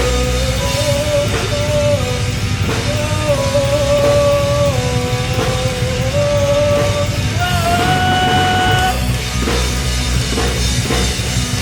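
Live rock band playing: a melody of held notes stepping up and down over bass and drums.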